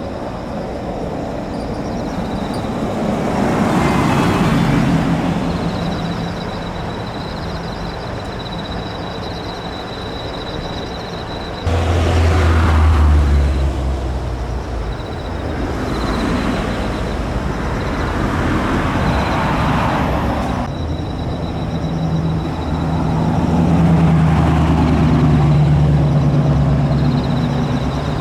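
Car engines running as vehicles drive past, the sound swelling and fading several times, with abrupt changes about twelve and twenty-one seconds in.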